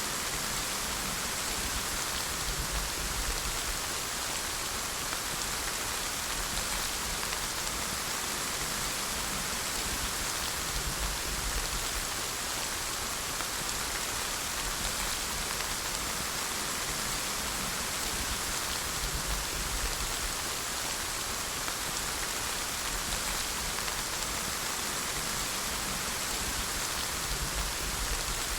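Steady rain falling on a surface, an even hiss of many drops with no change in intensity.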